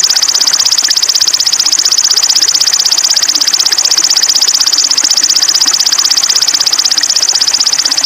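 A continuous, very rapid high-pitched trill, an even run of many pulses a second, held without a break: a trill from a birdsong-training (masteran) recording used to teach caged sogon birds.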